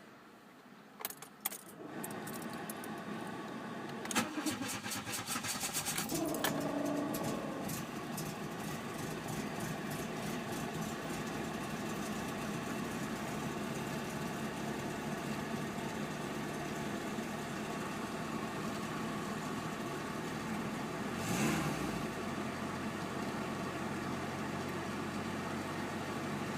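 Mk2 Volkswagen Jetta 1.8 engine hard-starting: a couple of clicks, then the starter cranks for about two seconds before the engine catches and settles into a steady idle. Near the end it briefly revs up and drops back.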